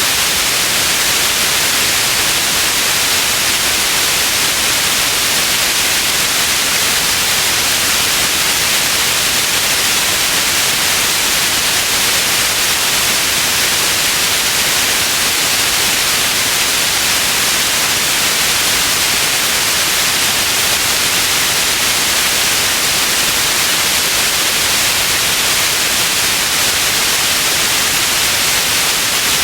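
Steady white noise: an even, unchanging hiss with most of its energy in the upper range, loud and without any breaks or changes.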